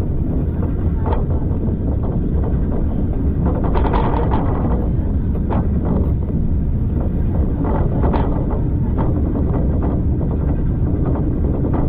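Heavy low rumble of a moving railway carriage heard from on board, with wind buffeting the microphone and irregular knocks and rattles.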